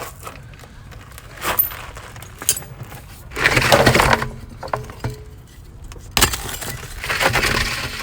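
Hard objects knocking and clattering, with a few sharp knocks and two longer rattling, scraping bursts, as heavy metal parts are handled and set down.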